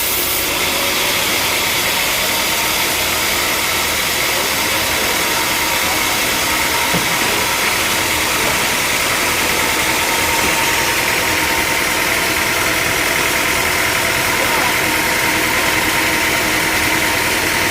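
Sawmill machinery running steadily: a constant engine-driven mechanical drone with a hiss on top that grows a little stronger about ten seconds in.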